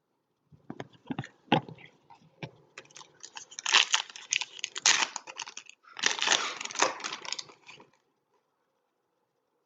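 Foil trading-card pack wrappers being torn open and crinkled, with cards being handled: irregular crackling and tearing, loudest in two stretches midway, stopping about two seconds before the end.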